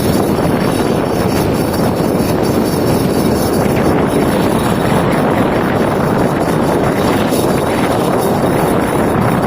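A car driving along: a steady rumble of road, tyre and wind noise, with no distinct squeal standing out.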